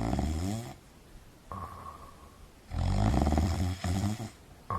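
A person snoring: two rattling snores, one fading out early and a louder one about three seconds in.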